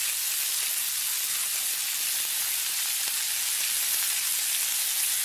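Italian sausages, onions and green peppers sizzling in oil in a cast iron skillet, a steady high frying hiss.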